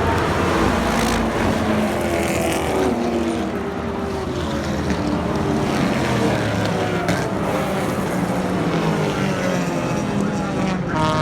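Race car engines running at speed on a circuit, their pitch falling and rising as they pass and change gear.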